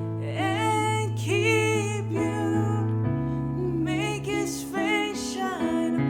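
A slow worship song: a singer over sustained keyboard and piano chords.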